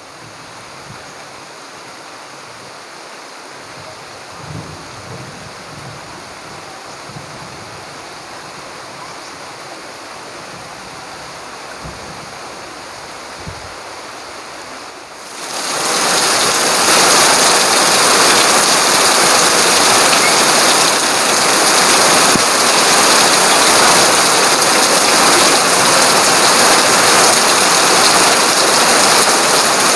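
Heavy tropical rain falling steadily. About halfway through it turns suddenly much louder into a dense, even downpour, with rain pouring off a roof edge.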